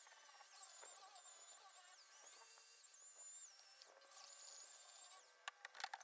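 Corded variable-speed drill spinning a 400-grit sanding pad against a stainless steel exhaust pipe, its whine stepping up and down in pitch as the trigger is eased and squeezed. A few sharp clicks near the end.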